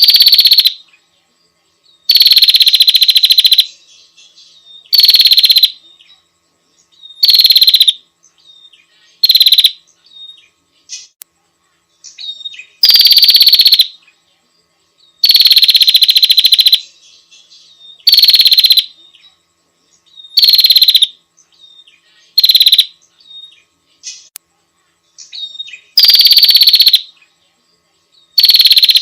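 Female prenjak (prinia) calling: loud, very rapid rattling trills, each lasting about half a second to a second and a half, repeated about every two to three seconds.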